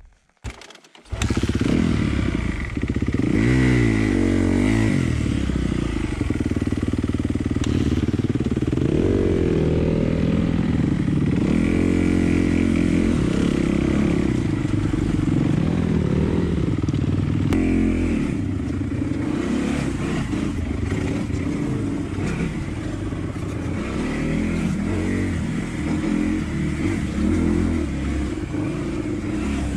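Dirt bike engine running on a trail ride, revving up and down as the rider works the throttle and gears. It starts abruptly about a second in.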